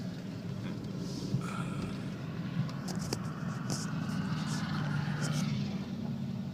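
2014 Chevrolet Spark's small four-cylinder engine idling steadily, with a few light clicks.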